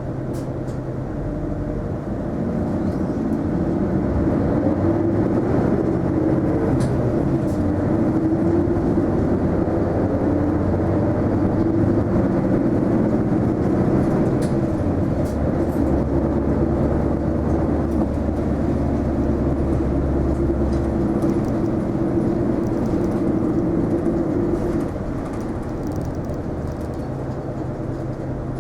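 Running sound inside an Isuzu Erga non-step city bus: engine and drivetrain noise gets louder about two seconds in as the bus pulls away, holds steady while it drives with a faint whine that slides up and down in pitch, then eases off about 25 seconds in.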